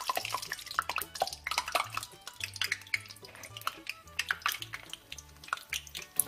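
Pieces of scorched rice crust (nureungji) frying in hot oil in a pan, with irregular crackles and pops throughout. Background music plays underneath.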